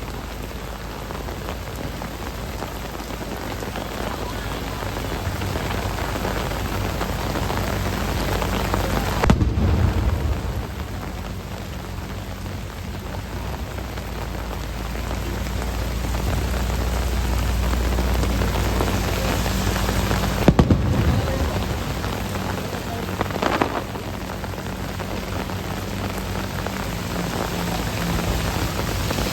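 Heavy rain falling steadily in a downpour, with three sudden deep booms partway through, about nine seconds, twenty-one seconds and twenty-three seconds in.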